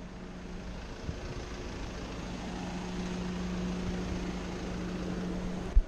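A vehicle engine running steadily: a constant low hum over road or wind noise that grows slightly louder, with a brief thump near the end.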